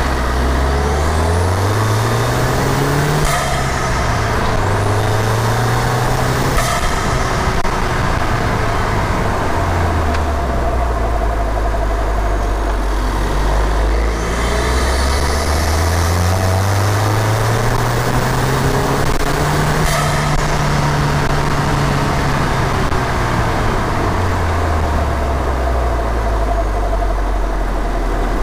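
Ford Fiesta ST's turbocharged engine, heard from inside the engine bay, revving up three times with a rising turbo whistle. Each climb ends in a sudden drop in revs and a short hiss as the blow-off valve vents. The longest climb comes after a spell of low, steady running in the middle.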